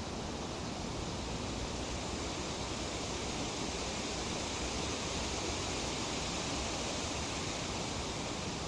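Breeze rustling through tree leaves: a steady, even hiss that swells slightly midway.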